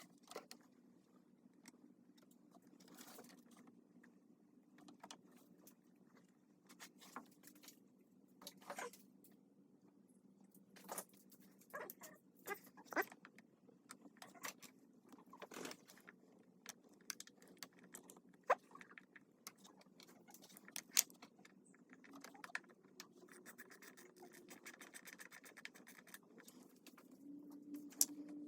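Scattered light clicks, taps and metallic clinks, one every second or so, from hand work with tools and small metal parts. A faint low hum runs underneath.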